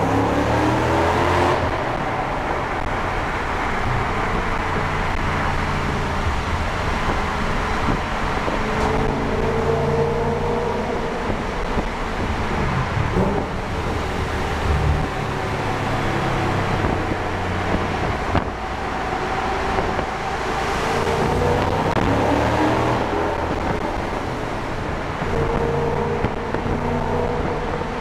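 2007 Audi S4's 4.2-litre V8 running through a Fast Intentions/JHM full-back exhaust in a tunnel, the engine note rising and falling several times as it accelerates and lifts off.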